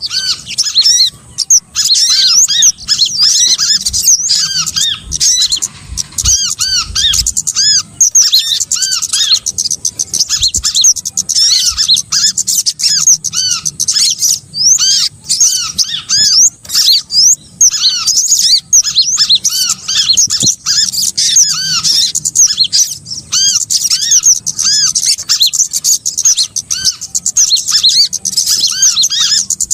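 Bird-lure recording of small songbirds calling: many quick, high, arching chirps overlapping in a dense, unbroken chatter, with a lower series of chirps repeating beneath it.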